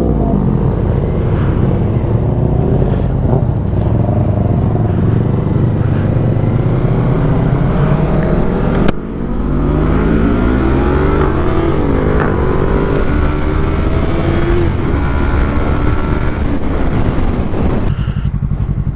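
Motorcycle engines running under way, with a steady rush of noise over them. There is an abrupt break about nine seconds in, then engine pitch rises and falls as the bikes change speed.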